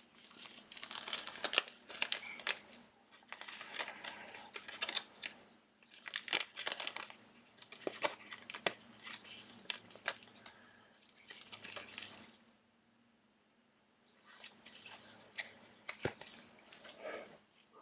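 Foil wrapper of a football trading card pack being torn and crinkled, with cards being shuffled and snapped against one another. The rustling comes in bursts, with a pause of about a second and a half roughly three-quarters of the way through.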